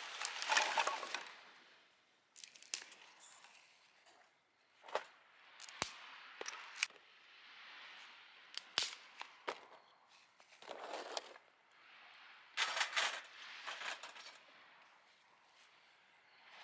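Bursts of rustling, with a handful of sharp clicks and snaps in between, like gear being handled by hand.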